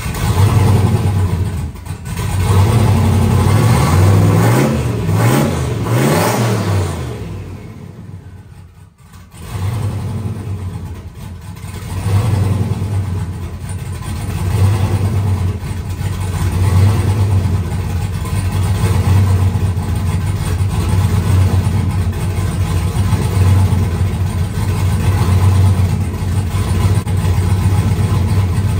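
Turbocharged 5.3-litre LS V8 running rough: its revs rise and fall a few times, it dies about eight seconds in, is restarted a moment later and then runs on with an uneven, surging level. The owner traces the poor running to a failing cam sensor losing sync, with metal flakes on it.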